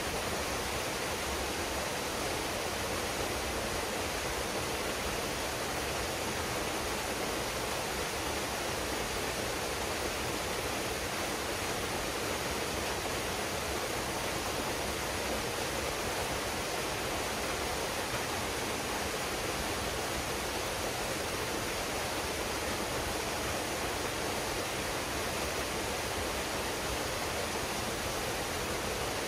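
Waterfall pouring steadily into a pool: an even, unbroken rush of falling water.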